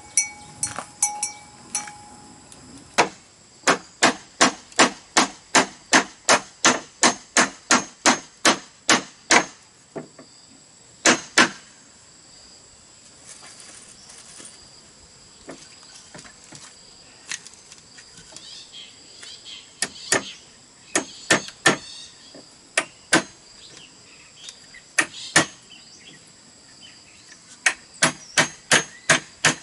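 Runs of sharp, even strikes of a tool on bamboo, about three a second, broken by short pauses, during a bamboo build. Insects whine steadily behind them, and a clanking bell rings briefly at the start.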